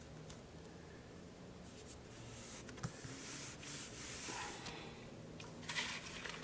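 Paper sheets rustling and sliding against each other as cut printable pieces are handled and sorted, with a few light clicks and taps.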